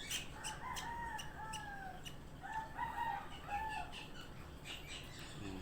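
Baby parrot chick calling during syringe hand-feeding: two runs of high, gliding calls, the first in the opening two seconds and the second around the middle, with light clicking throughout.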